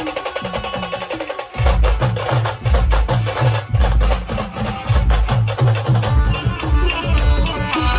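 Band music with rapid, even percussion ticking over a melodic line; about a second and a half in, a heavy bass drum beat comes in and keeps time.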